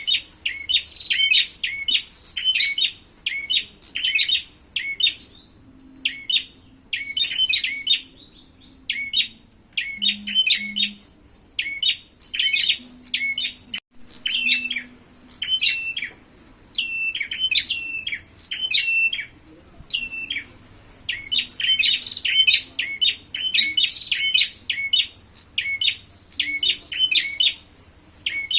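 Prenjak, small Indonesian warbler-like songbirds, giving fast, repeated sharp chirping calls in quick series, the agitated calling of birds fighting.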